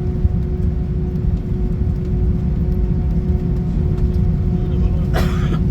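Airbus A319 cabin noise on the ground after landing: a steady low rumble with a constant hum. A brief, sharp noise comes about five seconds in.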